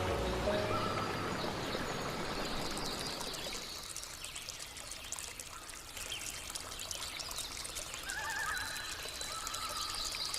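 Flowing water running and trickling steadily, a little softer midway, with faint music tones fading at the start and returning near the end.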